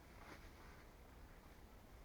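Near silence: faint outdoor ambience, with one soft, faint rustle about a third of a second in.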